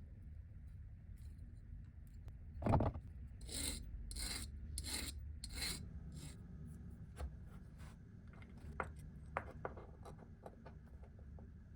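Hand workshop work on a small part: a single knock, then five rasping strokes about 0.7 s apart, like filing or sanding, followed by scattered light clicks and taps, over a low steady hum.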